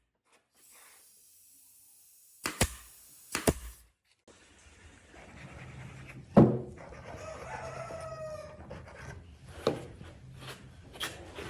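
A rooster crowing once, about seven seconds in, amid several sharp knocks, the loudest just before the crow.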